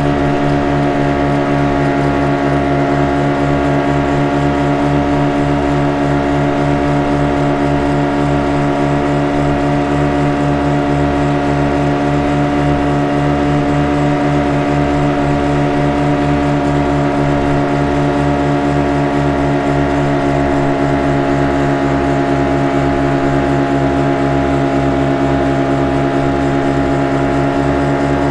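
Boat engine running at a constant speed: a steady, unchanging drone of several held tones over a fast low throb.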